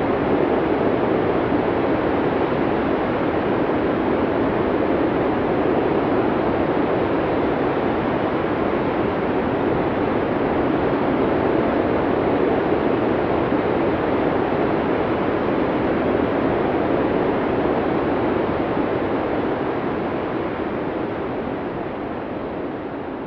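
Blizzard wind: a steady, rushing wind noise with no distinct gusts, fading out over the last few seconds.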